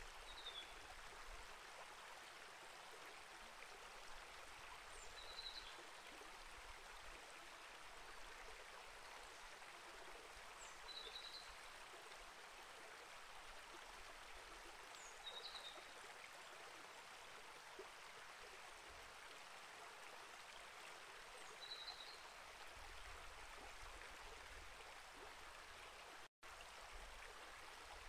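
Small rainforest creek flowing, an even soft rush of running water. A bird gives a short high chirp about every five seconds over it. The audio drops out for an instant near the end.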